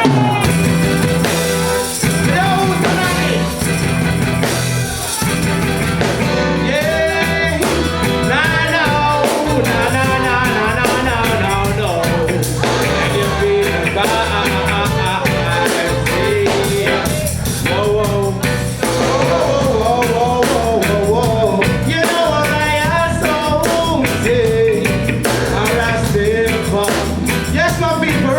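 Live reggae band playing a full arrangement with bass, drums and a wandering melodic lead, coming in at once on the count.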